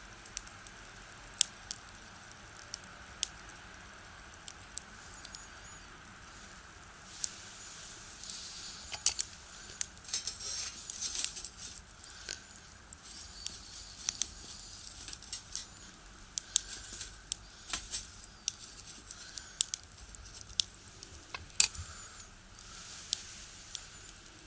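Firewood crackling and popping in a small box stove: irregular sharp pops, with stretches of soft hissing from the burning wood.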